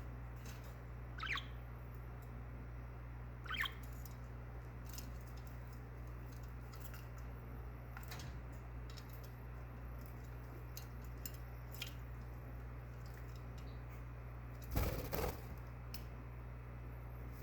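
Budgerigar giving two short, falling chirps a couple of seconds apart, with faint scattered clicks, over a steady low hum. Near the end comes one brief, louder burst of noise, such as wings flapping or a splash.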